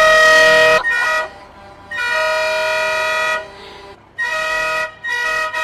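Truck horn honking in repeated blasts, several pitches sounding together as a chord: a long blast, a short one, another long one, then three quicker short blasts near the end.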